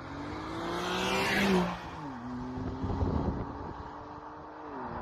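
BMW M2 Competition's twin-turbocharged S55 inline-six accelerating hard as the car approaches. The engine note climbs in pitch and is loudest just before an upshift about two seconds in, then holds and drops again at a second upshift near the end.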